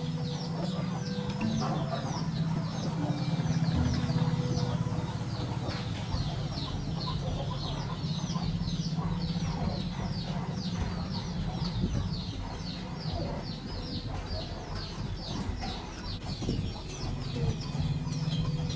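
A steady, rapid series of short, high, downward-sliding chirps, about three a second, from a calling bird or insect, over a low steady hum.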